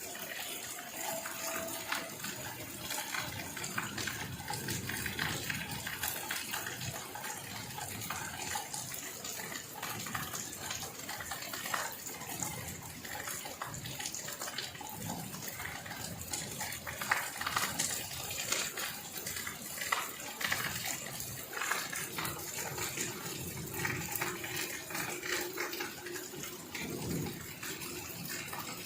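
Heavy rain pouring down steadily, with water splashing and running.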